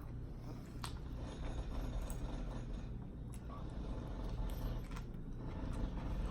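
Quiet eating sounds: chewing with a few light clicks, over a steady low rumble.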